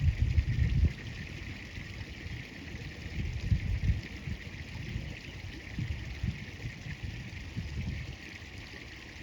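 Wind buffeting the microphone in irregular low rumbling gusts, strongest at the start and again about three and a half seconds in, over a steady high hiss.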